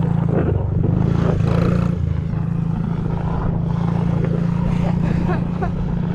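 Motorcycle engine running steadily at low speed, as in slow, tight circle drills.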